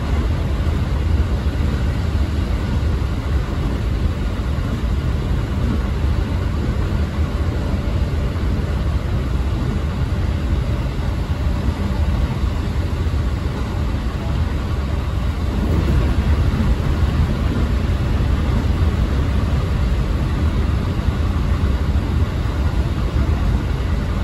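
Electric train running at speed through a long tunnel, heard from inside the carriage: a steady deep rumble of wheels on rail with the tunnel's roar.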